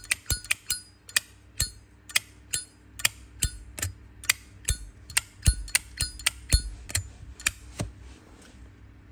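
Zippo lighter lid flipped open and snapped shut over and over, a string of sharp metallic clicks, two or three a second, that stops about eight seconds in.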